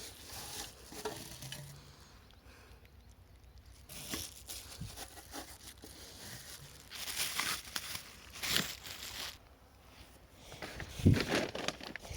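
Irregular rustling and scraping handling noises, with a louder knock about eleven seconds in; no engine is running.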